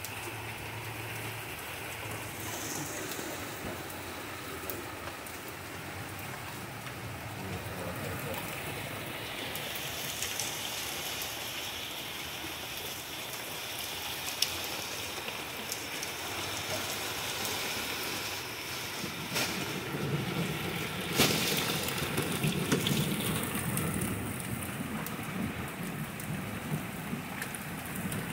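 Heavy downpour of flash rain falling steadily and growing heavier partway through. A single sharp crack about three-quarters of the way in is the loudest moment.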